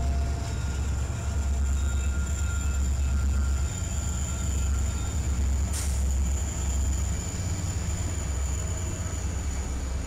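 Trains rolling past: a steady low rumble of wheels and cars with thin, high wheel squeal over it, and a single sharp clank about six seconds in.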